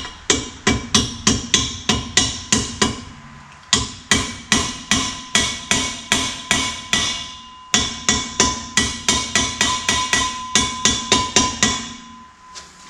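Hammer striking a steel exhaust part, about three blows a second in three runs with short pauses, the metal ringing after each blow.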